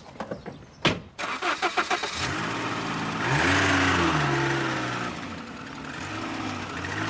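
A car door shuts, then a car engine is cranked over and catches. It revs up, rising then falling in pitch, and settles to a steadier run.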